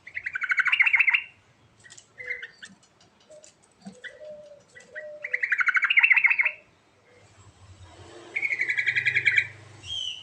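Trucukan (yellow-vented bulbul) singing: three loud, rapid chattering phrases of about a second each, at the start, around six seconds in and near the end, with softer scattered notes between them.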